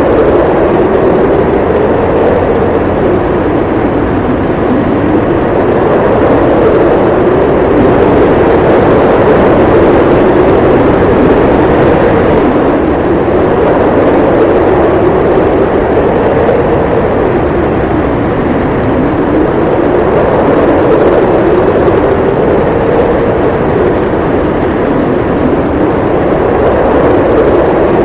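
Strong wind howling in a snowstorm: a steady rushing noise with a hollow howl that slowly rises and falls in pitch every few seconds.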